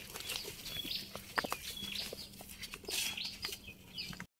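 A small bird chirping over and over, short high calls about twice a second, with a few faint soft ticks under them. The sound cuts off suddenly near the end.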